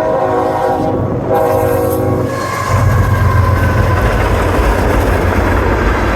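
Diesel freight locomotive's air horn sounding in two blasts, the second ending about two seconds in. The locomotive then passes close with a loud, low engine rumble and the noise of wheels on the rails.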